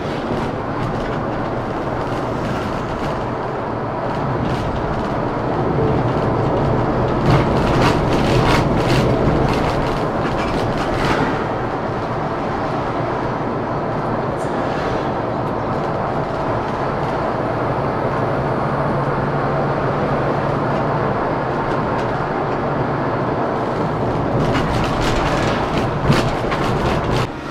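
Scania K410CB coach under way: steady diesel engine and road noise, with scattered rattles and knocks, in two clusters about a third of the way in and near the end.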